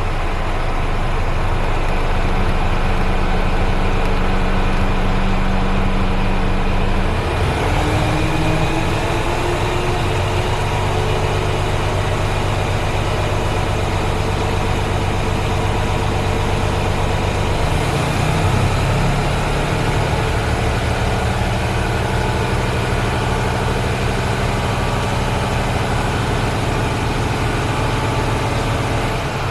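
Mercedes-Benz Actros 1843 tractor unit's 12.8-litre straight-six diesel idling steadily after starting. Its note shifts about seven seconds in and again around eighteen seconds in.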